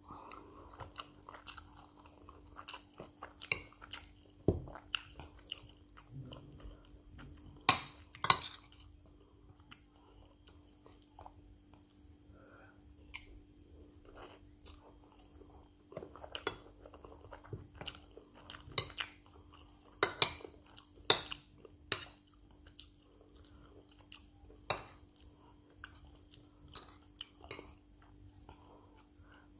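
A person chewing and eating white rice and stew close to the microphone, with many sharp clicks and smacks from the mouth and the metal spoon and fork. The loudest clicks come about eight seconds in and again around twenty to twenty-two seconds in, over a steady low hum.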